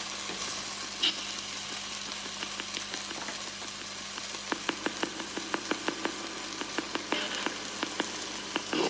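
Food sizzling in hot oil in a frying pan, a steady hiss. From about four and a half seconds in, irregular sharp pops and crackles of spitting oil join it.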